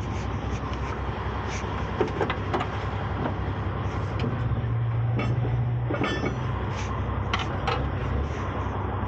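Tow truck engine running steadily, with scattered sharp clanks and knocks of equipment being handled.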